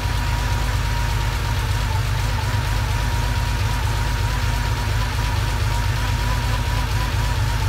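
1980 Porsche 911SC's air-cooled 3.0-litre flat-six idling steadily, warming up on its first run after a full rebuild, with a thin steady whine above the low engine note.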